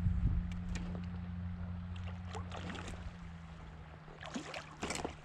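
Running river water with a low steady hum under it, and a few short sharp sounds between about two and five seconds in.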